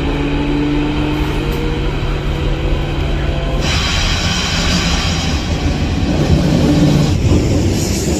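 S-Bahn commuter train running, heard from inside the carriage: a steady low hum, joined about halfway through by a louder rushing noise.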